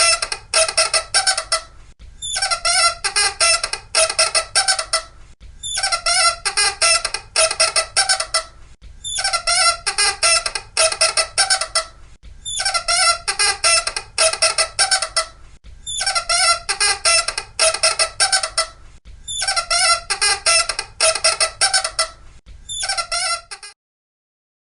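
Loud high-pitched squeaking in rapid chattering bursts. The same stretch of about three seconds repeats every three and a half seconds as a loop, then cuts off suddenly near the end.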